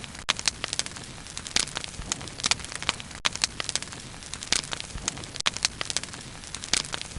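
Wood fire crackling, with irregular sharp pops and snaps over a steady low hiss of burning.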